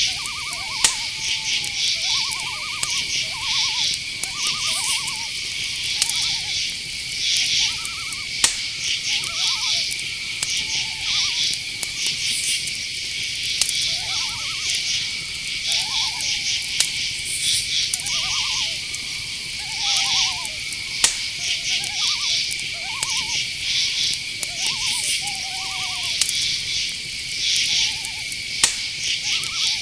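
Night-forest ambience: crickets chirping in fast pulses over a steady high insect trill, with an owl giving short, repeated hooting calls throughout. A few sharp clicks break in now and then.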